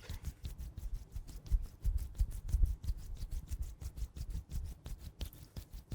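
Close-miked ASMR handling sounds: a rapid run of soft clicks and taps with low thuds against the microphone, heaviest about two seconds in.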